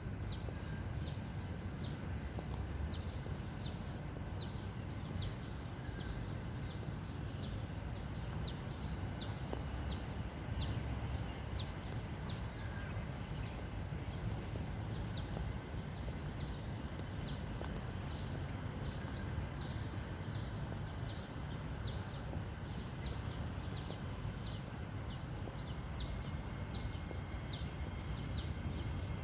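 Small birds chirping: many short, high notes that slide downward, about two a second, with a few quick trills. Underneath is a steady low rumble and a thin, steady high hiss.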